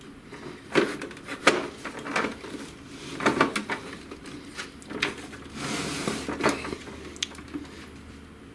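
Plastic parts of an inkjet printer being handled during disassembly: a string of sharp clicks and knocks as the scanner unit's ribbon cables are freed from their connectors and the unit is moved, with a brief scraping rustle about six seconds in.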